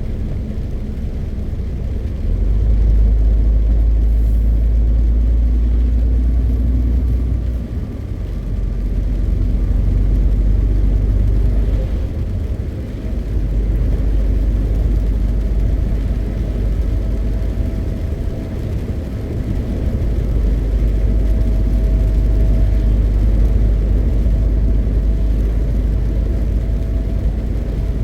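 MAN TGX 520 truck's 12.4-litre straight-six diesel engine running under way with road noise, a low steady rumble that swells and eases in stretches, dipping briefly about 8 and 13 seconds in.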